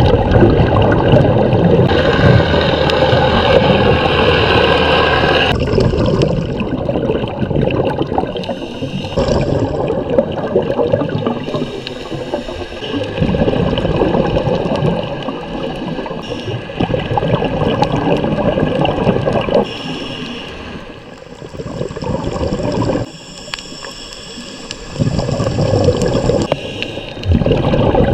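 Scuba diver's exhaled bubbles gurgling out of the regulator, heard underwater. The bubbling comes in loud bursts of a few seconds with quieter gaps between them.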